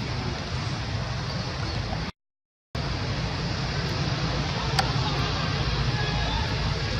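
Steady outdoor rumble and hiss, heaviest in the low end, that cuts out to dead silence for about half a second a third of the way in, with a single sharp click later on.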